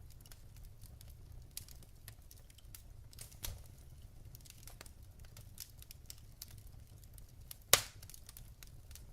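Wood fire in a fireplace crackling: logs give scattered small ticks and snaps, with a louder pop about halfway and a sharp, loud crack near the end.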